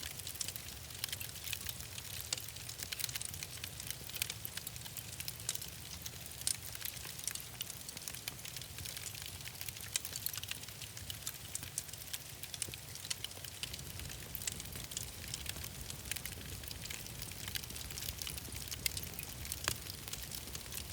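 Wood fire crackling in a fireplace: irregular sharp pops and snaps over a steady hiss and a low rumble of the burning logs.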